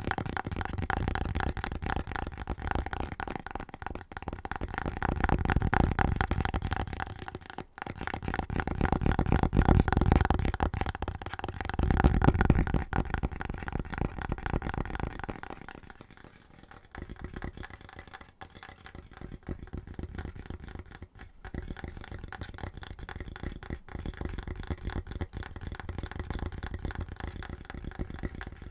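Fast, aggressive hand tapping on household objects: a dense, rapid run of taps. About halfway through the tapping changes to a duller, quieter sound, as on a different object.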